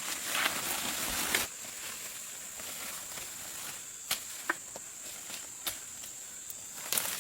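Forest ambience: a steady high insect drone, with rustling in dry leaves or brush during the first second and a half, then a few sharp snaps and clicks.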